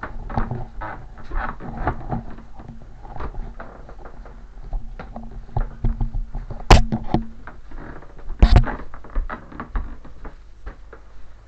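Irregular clicks and knocks of things being handled, over a faint steady hum, with two sharp, louder clacks a little over halfway through, about two seconds apart.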